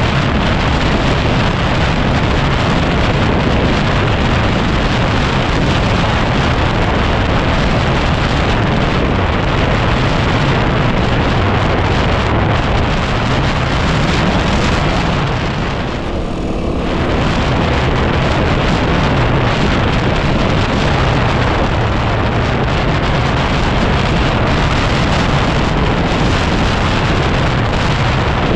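Heavy wind noise on the microphone over a 2010 Yamaha WR250R's single-cylinder four-stroke engine running on the move, its pitch wavering with the throttle. The level dips briefly just past halfway.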